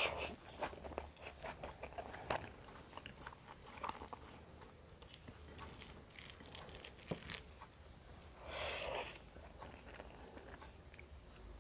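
Close-miked chewing of rice and fish: wet mouth sounds with many small clicks and smacks. One louder rush of noise, under a second long, comes about three-quarters of the way through.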